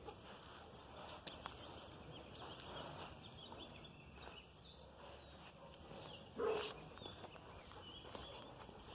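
A dog barks once, about six and a half seconds in, over a faint background with small high chirps.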